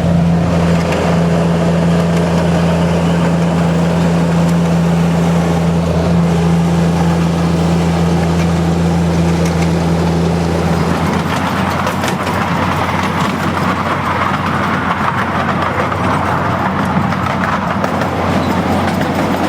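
Miniature railway locomotive with a Vauxhall petrol engine running along the track, giving a steady engine hum. About eleven seconds in the steady engine note drops away and a rougher running noise takes over.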